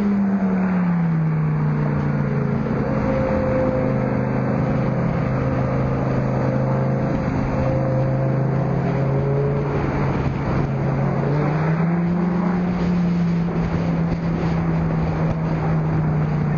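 Car engine and exhaust droning at a steady cruising speed, with wind noise. The engine note drops in the first couple of seconds, holds steady, then climbs slightly about twelve seconds in.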